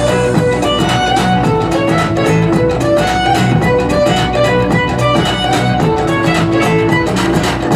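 Instrumental music: a violin playing a melody over guitar accompaniment and a steady beat.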